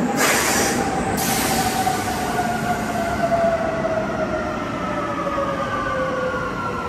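Train running, with a whine that falls steadily in pitch and a short burst of hiss in the first second.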